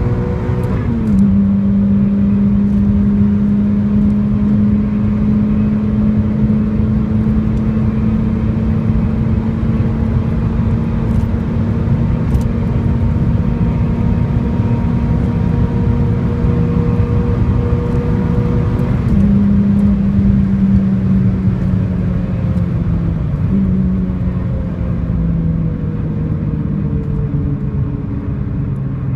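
Renault Clio R27's 2.0-litre four-cylinder engine under full-throttle acceleration at high speed: the engine note drops at a gear change about a second in, then climbs slowly through a long pull in a high gear. It drops again twice later and falls gradually toward the end as the revs come down.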